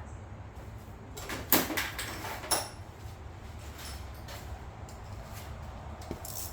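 A few sharp metallic knocks and clinks, one ringing briefly, from hand tools being handled, over a steady low hum.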